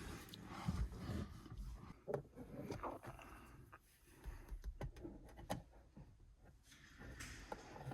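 Faint rubbing and scraping on the inside of a car windshield during cleaning, broken by scattered light taps and clicks.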